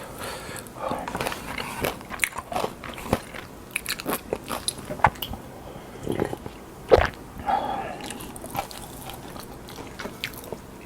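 Close-miked biting and chewing of crunchy food: a run of sharp crunches, the loudest about seven seconds in.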